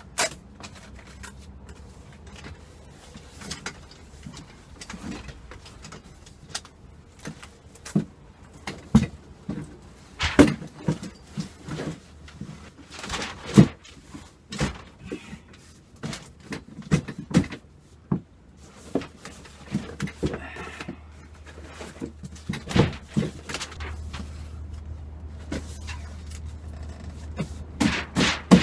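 Irregular knocks, clunks and clicks of varying loudness, with a low steady rumble underneath in the second half.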